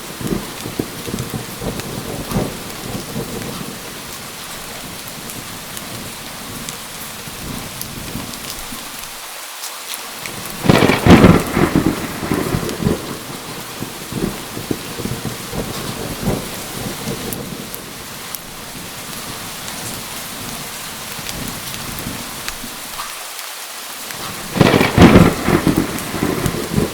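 Steady heavy rain falling, with two loud thunder crashes, one about eleven seconds in and one near the end.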